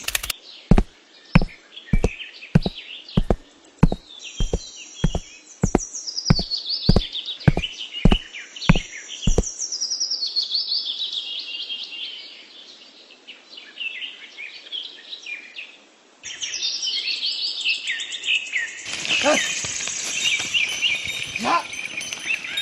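Birds chirping throughout, over a series of about fifteen sharp knocks evenly spaced a little over half a second apart during the first nine seconds. The sound changes abruptly about 16 s in, and a louder noise joins the chirping near the end.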